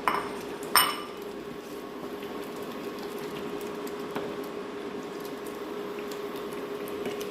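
A metal utensil or dish clinks twice against a cooking pot, the second strike the louder, as fried onions are tipped back into the chicken curry. A steady hum with a few faint ticks follows.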